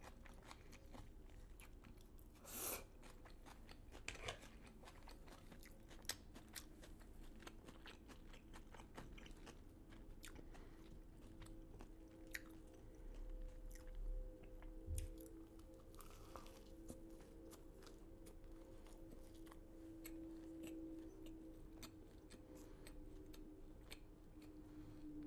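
A person chewing and crunching food close to the microphone, with irregular crackles, mouth clicks and a few louder bites, while eating a KFC fried chicken and waffles meal.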